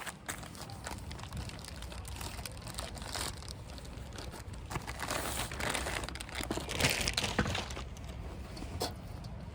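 Irregular rustling and crinkling with scattered light clicks, heaviest in the middle, like material being crumpled or handled.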